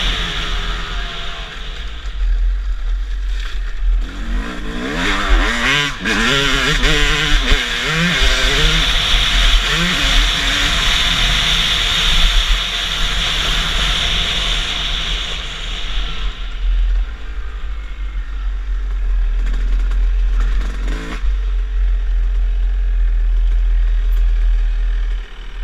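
Motocross dirt bike engine revving up and down under a steady hiss and a heavy low rumble. Its pitch climbs and drops several times from about four to ten seconds in.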